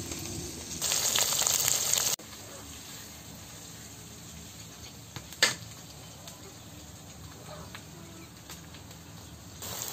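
Chicken pieces frying in oil in a steel kadai. Garlic paste going into the hot pan sets off a loud sizzle that cuts off abruptly about two seconds in, leaving a quieter steady sizzle as the pan is stirred with a steel spatula, with one sharp metal clink about halfway.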